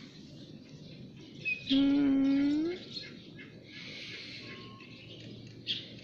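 Small birds chirping now and then, with one loud, drawn-out call rising in pitch about two seconds in and lasting about a second.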